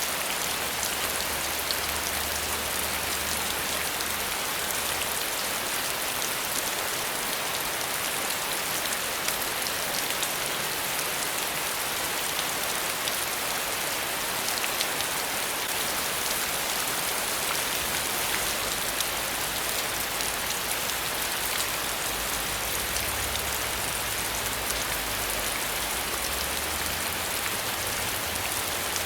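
Steady, heavy rain: a dense, even hiss with countless fine drop ticks, unchanging in strength.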